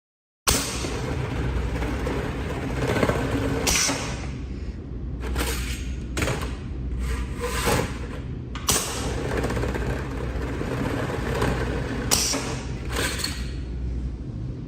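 Aluminium flexible duct end-shrinking machine running: a steady motor hum and machine noise, with a number of sharp clanks at irregular intervals as it works the duct end.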